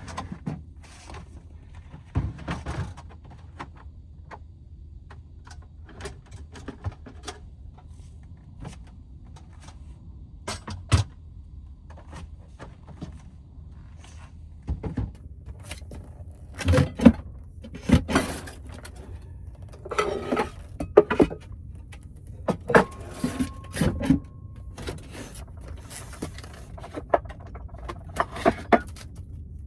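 Objects being handled and set down inside a van: scattered clicks, knocks and clunks, thickest in the second half, over a low steady rumble.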